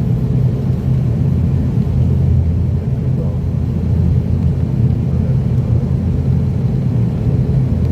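ATR 42-600's twin turboprop engines and propellers running steadily, heard from inside the cabin as an even low drone.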